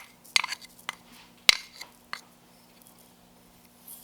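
A kitchen utensil clinking against dishes: several separate sharp clinks with a short ring, the loudest about a second and a half in.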